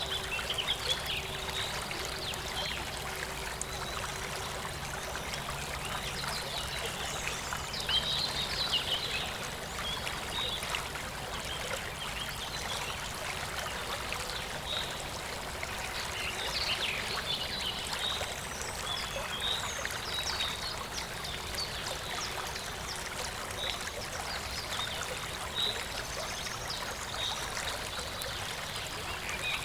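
Small river flowing: clear water babbling and trickling steadily.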